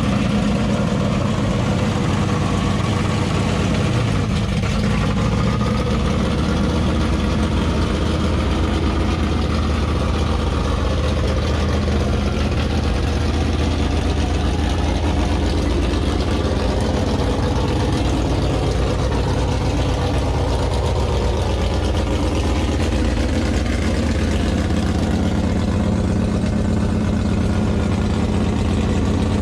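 A 1965 drag-race car's engine idling steadily, running just after start-up.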